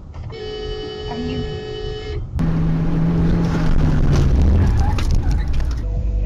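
A car's engine and road noise: a loud steady rumble with a low engine tone that sinks slightly and scattered clicks, starting abruptly about two seconds in. Before it there is a short stretch of a few steady tones.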